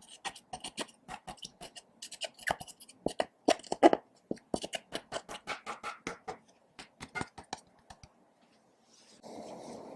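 Glue slime being kneaded and squeezed by hand, giving quick irregular sticky clicks and pops. These stop near the end, and after a short pause a steady rushing noise begins.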